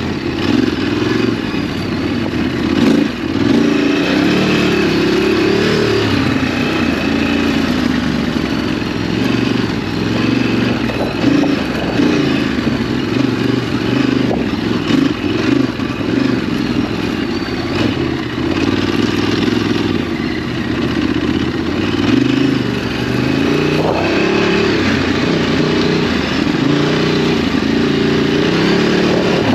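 Ducati DesertX's 937 cc L-twin engine running under changing throttle, its pitch rising and falling as the rider accelerates and backs off.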